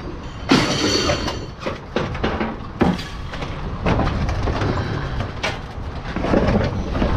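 Scrap metal clanking and scraping as pieces are pulled and dropped off a truck bed, with a long grating scrape about a second in and repeated sharp metal knocks, over a steady low rumble.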